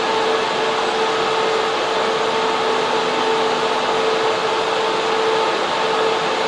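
Server room: many server cooling fans and air-conditioning blowers running together as a loud, steady rush of air, with a constant whine held on one pitch on top.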